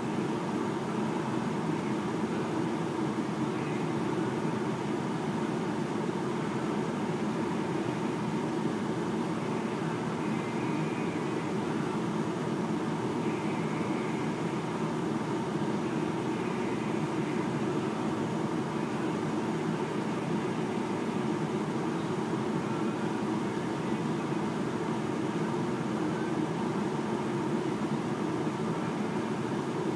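A truck running at a steady pace, a constant engine and driving rumble that holds without any revving or change in pitch.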